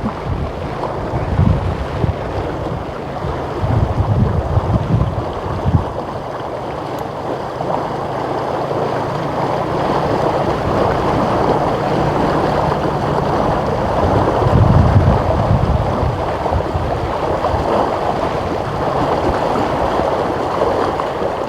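Floodwater rushing and flowing steadily. Wind gusts buffet the microphone a few times, about a second in, around four seconds in, and again in the second half.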